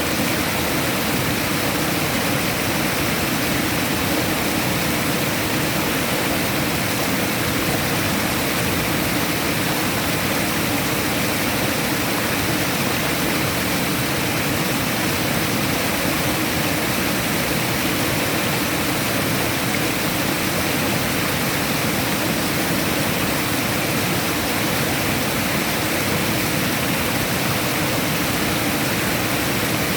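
Steady, unbroken rushing of running water, a continuous full hiss with no separate splashes or changes.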